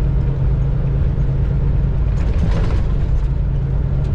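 Semi truck's diesel engine running steadily while driving, heard inside the cab as a constant low drone. A brief hissing rustle about two seconds in.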